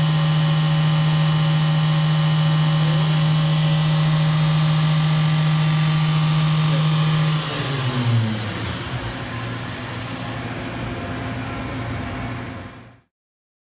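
Fadal VMC4020HT CNC vertical mill spindle running at 10,000 RPM with a steady whine, then spinning down about seven seconds in, its pitch falling. A quieter machine hum carries on after it until the sound cuts off suddenly near the end.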